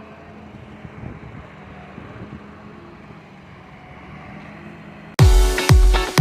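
A vehicle engine running steadily at idle, a low even hum. About five seconds in, loud electronic dance music cuts in with a heavy kick drum about twice a second.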